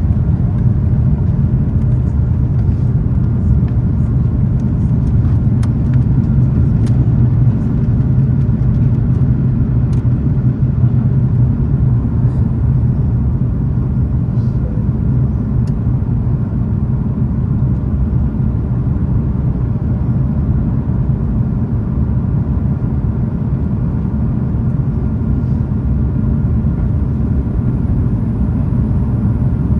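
Steady low drone of an Airbus A330-300's Rolls-Royce Trent 700 turbofans and rushing air, heard inside the cabin over the wing.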